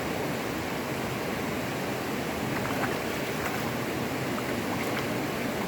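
Steady rushing of flowing water, with a few faint ticks over it.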